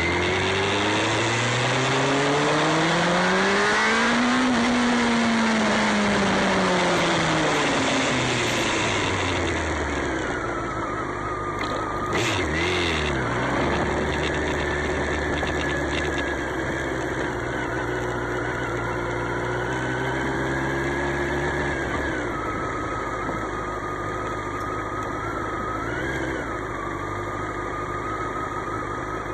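Motorcycle engine under way: its pitch climbs for the first four seconds or so, then falls away, and from about twelve seconds in it runs at a steadier pitch with small rises and dips.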